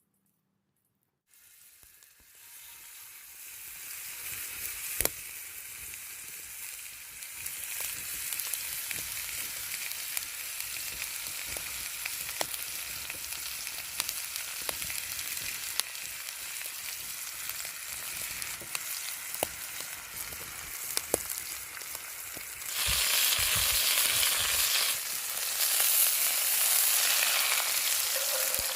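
Steak frying, a steady sizzle with scattered sharp pops. The sizzle starts suddenly about a second in, builds over the next few seconds, and grows louder near the end.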